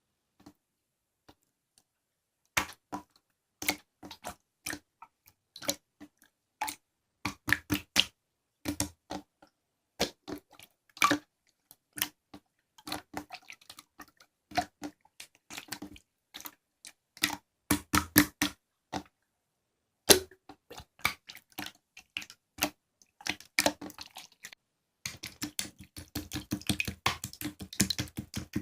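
Slime being played with by hand, giving irregular sticky clicks and pops, which turn into a dense run of rapid crackling near the end.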